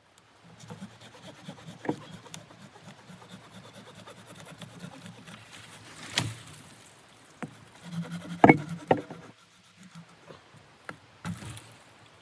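Handling noises: a run of light knocks, clicks and rubbing, with sharper knocks about two and six seconds in and the loudest cluster of knocks at about eight and a half seconds.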